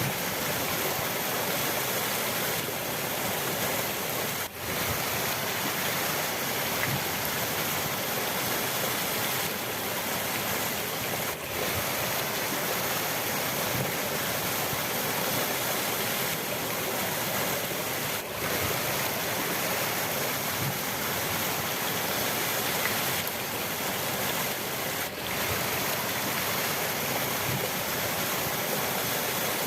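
River water rushing steadily, a dense even noise that dips for an instant about every seven seconds.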